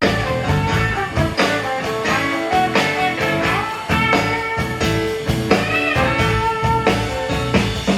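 Live blues band playing an instrumental passage, guitar over a steady drum beat.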